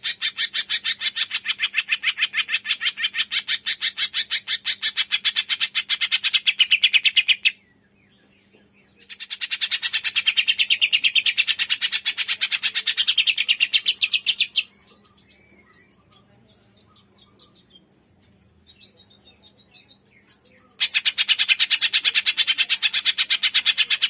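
Cucak ijo (green leafbird) singing a 'tembakan' song: a rapid, even string of sharp high chirps, the kind played to rouse a reluctant bird into singing. It breaks off briefly about seven seconds in and again from about fourteen to twenty seconds in, when only faint scattered chirps are left.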